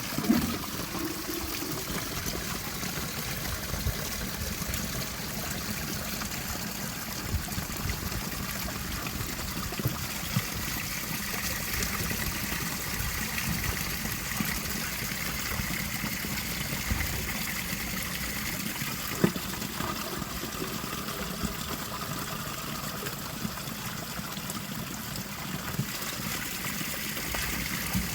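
Steady rush of flowing river water, running high, with a few light knocks now and then.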